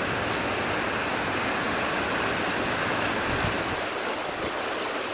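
Heavy rain falling in a steady downpour, an even, unbroken hiss of water.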